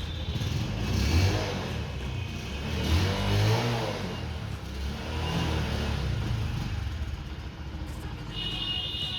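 A new Bajaj Discover 125's single-cylinder engine running, revved up twice in the first few seconds and then settling back to a steady idle.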